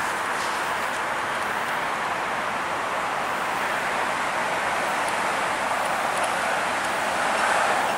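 Steady rolling noise of passenger trains on the rails, with no clear engine note. It comes from a VIA Rail train pulling away and a GO Transit train coming in on the next track, and swells a little near the end.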